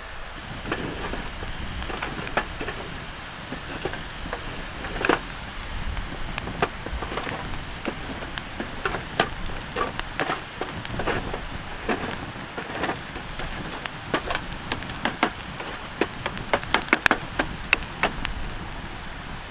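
Campfire crackling: irregular sharp pops and snaps over a steady hiss, coming thick and fast near the end.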